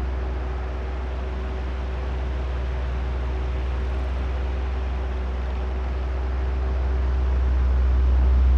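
Oscillating electric fan running: a steady low motor hum and a few faint steady tones under an even rush of air. The sound grows slowly louder over the last few seconds as the fan head sweeps back and forth.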